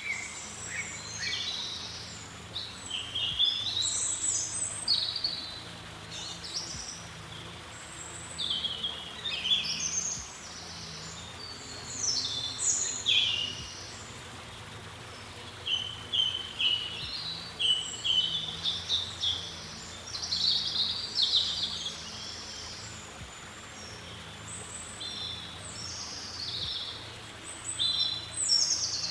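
Small birds chirping and singing in short, high, quick phrases every few seconds, over a steady low background hum.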